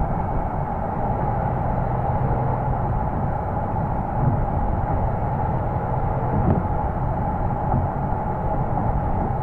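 Porsche Boxster S 3.2-litre flat-six heard at the exhaust while driving, running at a steady, nearly unchanging engine speed with road rumble underneath.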